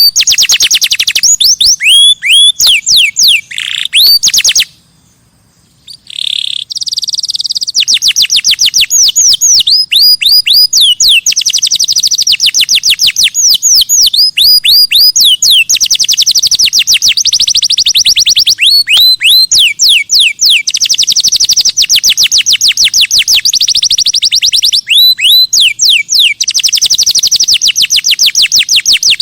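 Songbird singing a long, rapid series of high, downward-sweeping whistled notes, broken by a short pause about five seconds in.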